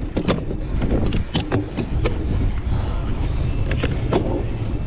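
Cyclocross bike riding over rough, bumpy ground: a steady low rumble from the tyres and wind, with frequent sharp clacks and rattles from the bike.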